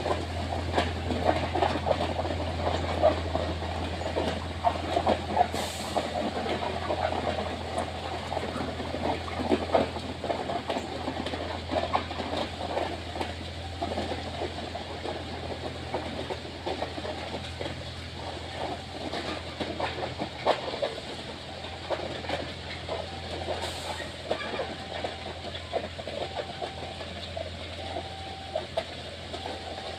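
A train running on the rails, with a steady low engine hum and wheel clatter that thins and grows quieter as it goes. In the second half a short beeping tone repeats about once every second and a half.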